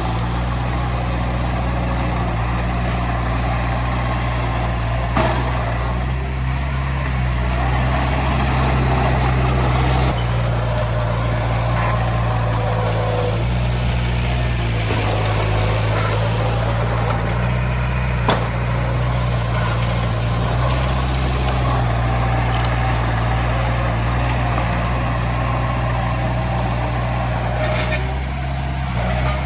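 Heavy diesel earthmoving machinery running steadily under load, a deep engine drone with a few sharp metallic clanks.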